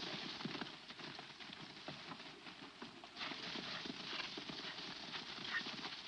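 Horse hooves clip-clopping in an irregular run of knocks, over the steady hiss of an old film soundtrack.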